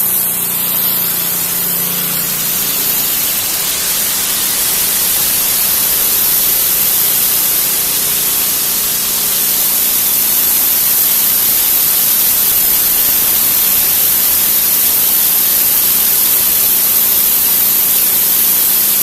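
Pressure washer jet spraying a concrete driveway: a loud, steady hiss of water, with a faint low hum underneath.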